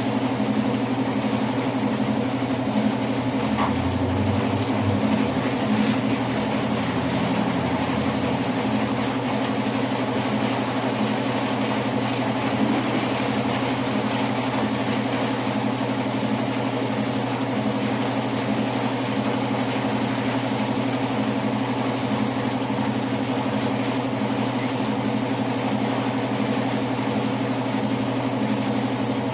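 A motor running at a steady, constant speed: an even, unbroken machine hum.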